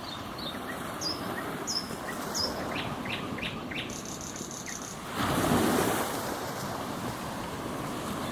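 Ocean waves washing on a shore, with one wave surging louder about five seconds in. Small birds chirp repeatedly over the surf, mostly in the first half.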